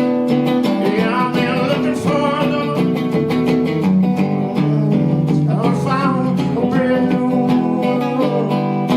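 Solo blues guitar played live, a steady strummed rhythm with bent lead notes sliding up and down twice.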